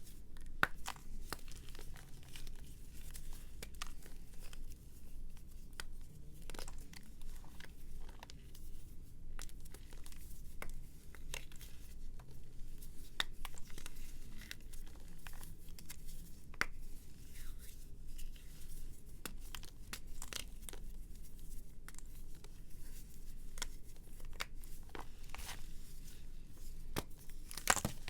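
A dry, crumbly material being crushed and crumbled by hand, a dense run of small crackles and crunches with a sharper crack near the end.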